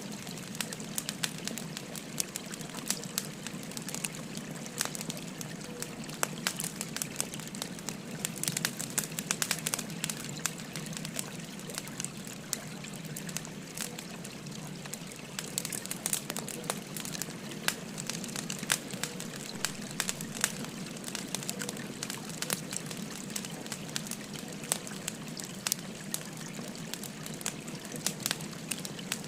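Wood fire crackling with frequent sharp pops and snaps over the steady babble of a flowing stream.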